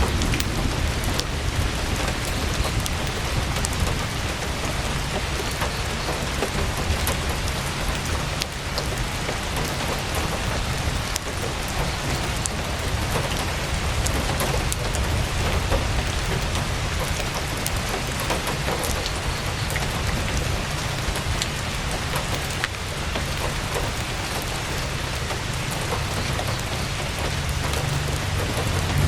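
Heavy rain drumming steadily on a tent's canvas, with a deep low rumble under it and scattered sharp ticks.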